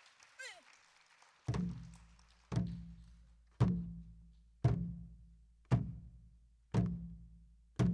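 Pansori barrel drum (sori-buk) struck in a slow, even beat, about one stroke a second, each stroke a sharp crack with a low booming body that dies away.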